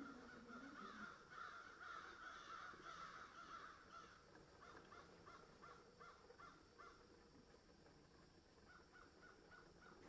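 Faint bird calls: a jumble of overlapping calls for the first few seconds, then runs of short, evenly spaced calls, about three a second, with a pause before a last run near the end.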